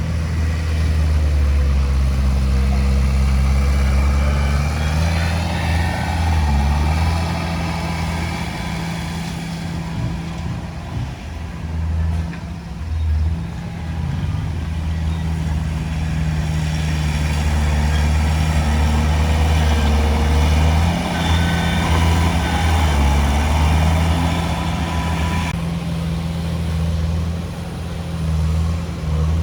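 Heavy diesel engine of earthmoving machinery working under changing load, with a steady low drone that swells and eases. A higher whine rides over it at times.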